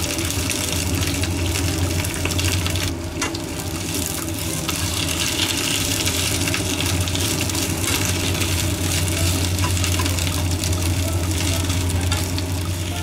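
Shishito peppers sizzling in oil in a frying pan as they are stir-fried: a steady hiss with a low hum underneath.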